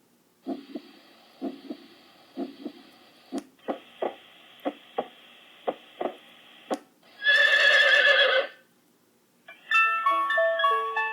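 Horse sound effect: a series of hoof knocks, then a horse whinnying for about a second and a half. A plucked, keyboard-like music jingle starts near the end.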